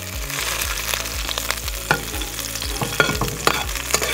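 Slit whole green chillies sizzling in hot oil with the gas off, frying on the oil's leftover heat from the garlic, with a steady hiss and frequent sharp pops. A metal ladle turns them in the wok.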